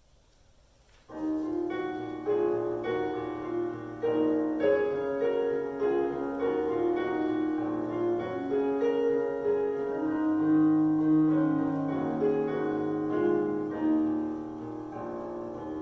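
Solo piano playing a slow, sustained introduction to a hymn, coming in about a second in after near silence.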